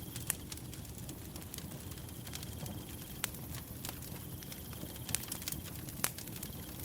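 Firewood burning with a low steady rumble and scattered sharp crackles and pops, a few of them loud. A cricket chirps in stretches of a second or two in the background.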